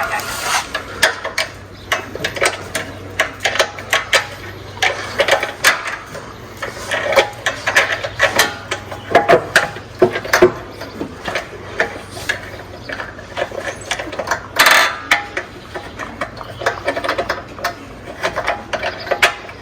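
Irregular metal clinks, taps and knocks of hand tools against minibike parts during mechanical work, with a louder clatter about two-thirds of the way through.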